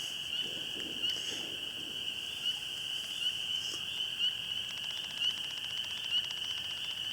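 Spring peepers calling: a steady high-pitched chorus with short, rising peeps repeated about every half second or so.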